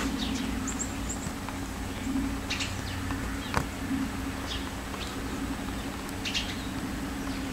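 Small birds chirping outdoors in the snow, with short, high, falling calls every second or so over a steady low hum. There is one sharp click about three and a half seconds in.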